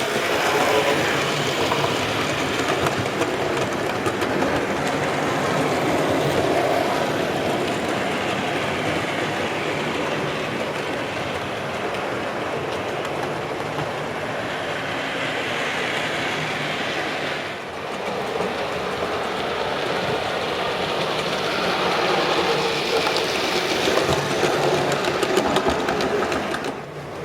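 Model railway goods train hauled by a Great Western pannier tank model locomotive, its wheels rolling steadily along the track.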